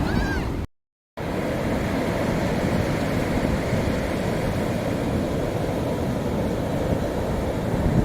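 Steady rumbling noise like wind buffeting the microphone, broken by a short total dropout about a second in; a brief high chirp sounds just before the dropout.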